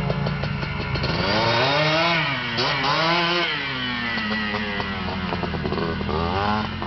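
Small motorcycle engine revving up and down several times, its pitch rising and falling, over a steady low engine drone.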